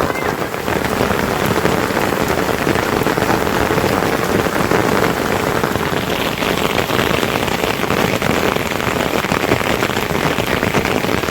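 Steady, heavy rain, with dense drops striking surfaces close by.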